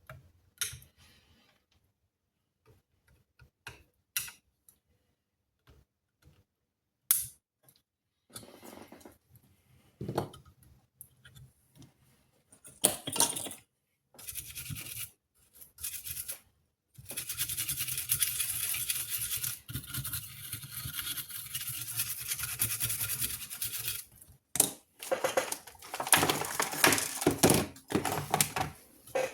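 Clicks, knocks and scraping from parts and tools being handled, with a steady rasping noise lasting about seven seconds in the middle.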